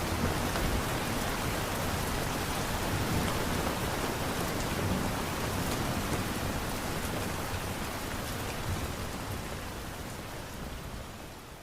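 Steady rain, an even hiss of falling drops, slowly fading out toward the end.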